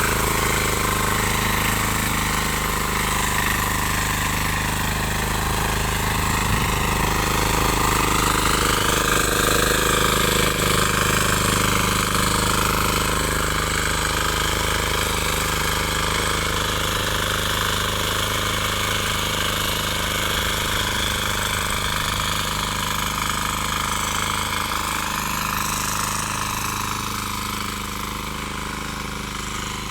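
7 hp single-cylinder diesel engine of a power tiller running steadily, easing slightly in level near the end.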